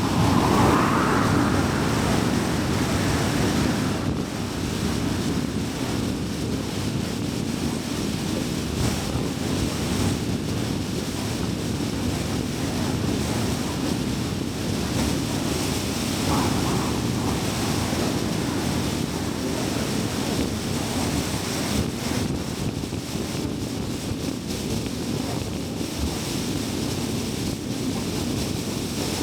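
Car driving on a highway: steady tyre and road noise with a low hum, a little louder for the first few seconds.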